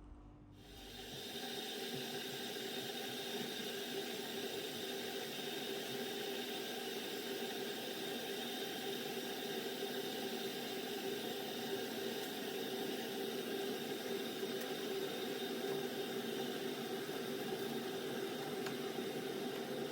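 A steady mechanical whir with a hiss, fading in over about the first second and then holding even, with a few steady hum tones in it.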